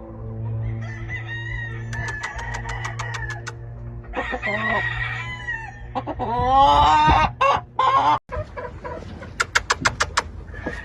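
Gamecocks crowing, two long crows about four and six seconds in, with hens clucking. Two quick runs of evenly spaced sharp clicks and a steady low hum are also heard.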